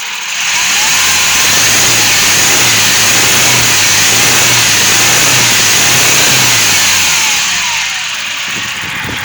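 Hyundai HR's 2.5 turbo-diesel engine revved up and held at high revs for several seconds, dropping back toward idle near the end. A noise from this engine goes away when the fourth injector is cut, and the mechanic suspects the fault is inside that injector.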